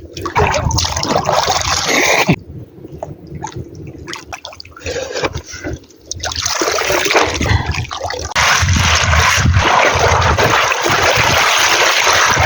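Water splashing and sloshing, uneven at first, then a louder steady rush from about halfway through.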